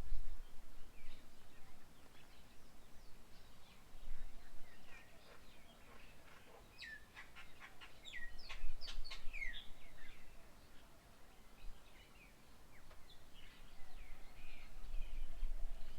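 Several birds chirping and calling, with a quick run of sharp chirps in the middle. A low rumble comes and goes underneath.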